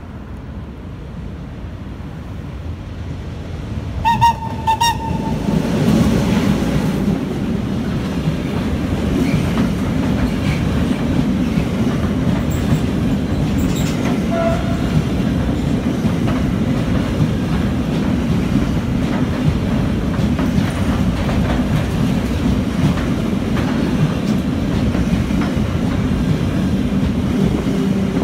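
A freight train of double-deck car-carrier wagons passes close by. A brief horn signal sounds about four seconds in, then the wagons' wheels make a steady, loud rumble and clatter on the rails.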